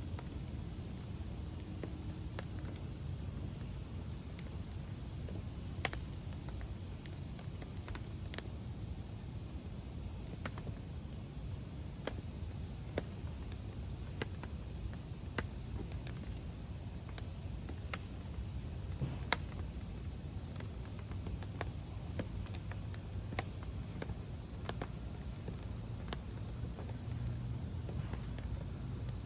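Crickets trilling steadily, with a burning wood fire crackling and popping in sharp single snaps every second or two over a low, steady rumble of flames.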